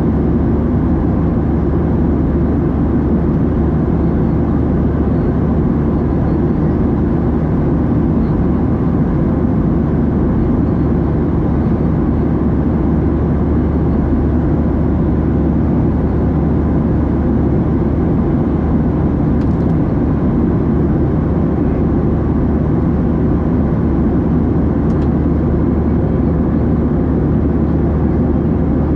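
Steady, loud cabin drone of a Boeing 737-700 with its CFM56-7B turbofans running, a deep noise of engines and airflow that holds unchanged throughout.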